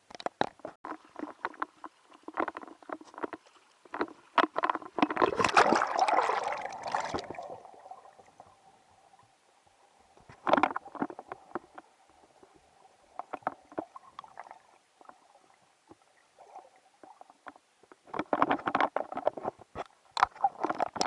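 Muffled knocking, rubbing and water sloshing heard from inside an action camera's waterproof case in the sea, in irregular bursts with quieter stretches between.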